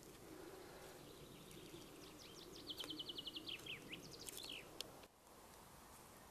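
A songbird singing one short song, faint against a low background hush: a run of quick high notes, a fast even trill, then a few falling notes and a short closing flourish, lasting about three seconds.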